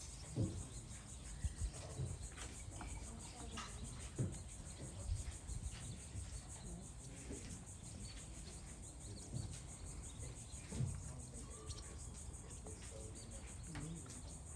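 Steady high-pitched insect chorus, finely pulsing, with occasional faint knocks and low thumps.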